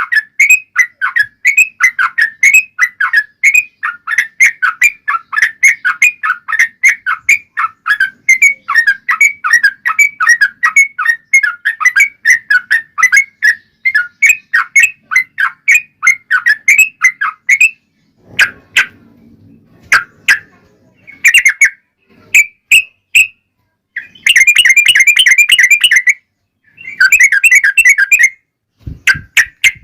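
Yellow-vented bulbul (trucukan) singing a long, fast run of repeated chattering notes, about three or four a second, then breaking off after about eighteen seconds into shorter bursts and a dense trill.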